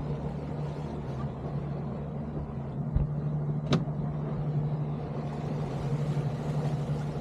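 Outboard motor of an inflatable boat running steadily at a constant pitch. There is a low thump about three seconds in and a sharp click just after it, and a hiss grows in over the last couple of seconds.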